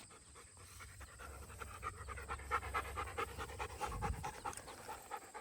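A Doberman panting fast and steadily, worn out ("gassed") after running at the dog park.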